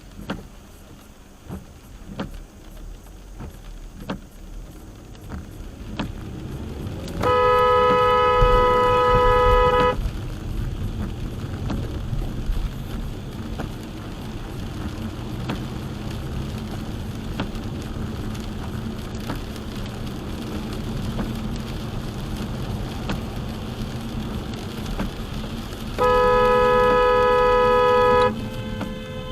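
Vehicle horn sounding two long, steady blasts of about two to three seconds each, the first about seven seconds in and the second near the end, over continuous road and engine rumble.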